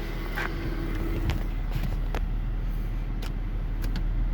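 Infiniti M37's engine idling in reverse, heard inside the cabin, with a few light clicks. The rear window shade, its motor disconnected, makes none of its usual noise.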